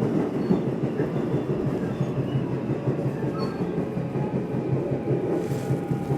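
Nishitetsu commuter train running between stations, heard from inside the car: a steady rumble of the wheels running on the rails.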